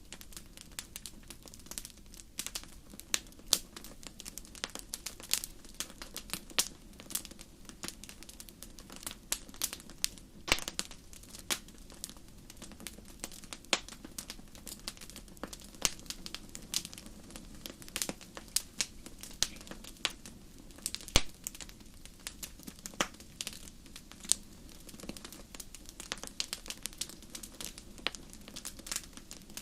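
Wood campfire crackling: irregular sharp pops and snaps, a few louder than the rest, over a faint steady low background.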